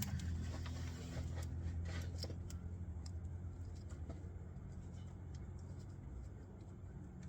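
Faint clicks and light scrapes of hand work on the engine over a steady low hum, the clicks thinning out after the first few seconds.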